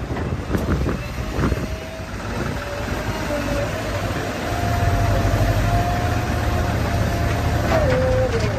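Heavy diesel engine running, growing louder about halfway through, with a steady higher whine over it and a few knocks in the first two seconds.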